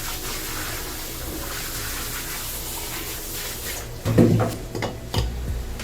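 Running tap water rinsing out a gutted fish's body cavity, a steady splashing rush that thins out about four seconds in, followed by a brief louder, lower sound.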